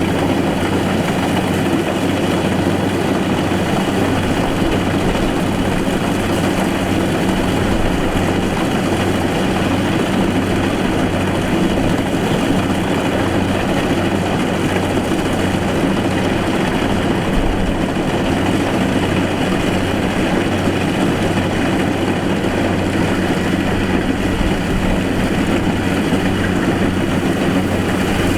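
Rice combine harvester's diesel engine running at a steady speed.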